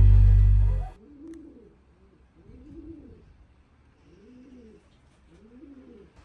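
Racing pigeons cooing: about four low coos, each rising and falling in pitch, spaced a second or so apart. Acoustic guitar music cuts out about a second in.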